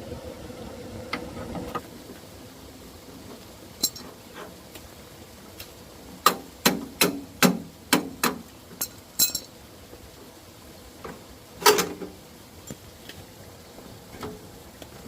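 Hammer blows: a quick run of about eight sharp strikes, then one more loud strike a couple of seconds later, with a few lighter knocks around them.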